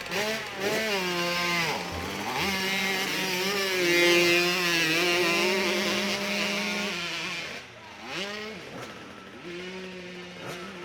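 Motorcycle engine revving hard on a hill climb run: the revs swing up and down for the first couple of seconds, then hold high and steady for about five seconds before dropping away, leaving a quieter engine running near the end.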